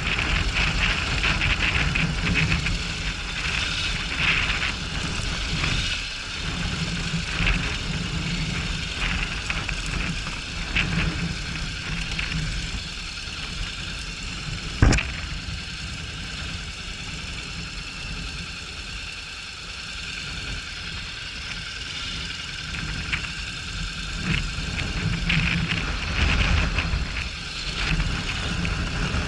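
Honda NC750X parallel-twin motorcycle engine running while riding over rough off-road ground, mixed with rumbling tyre and wind noise that swells and eases. One sharp knock about halfway through.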